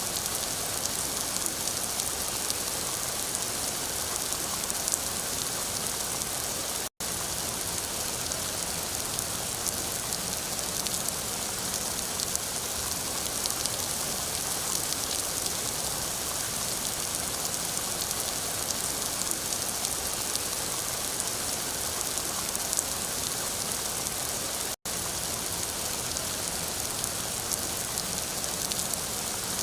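Steady rain falling, a dense even hiss of drops with fine pattering. It cuts out to silence for an instant twice, about 7 seconds in and near 25 seconds.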